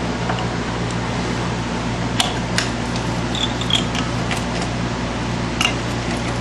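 A steady fan-like hum, with a handful of light metallic clicks and taps from brake parts and tools being handled, the sharpest about two seconds in and again near the end.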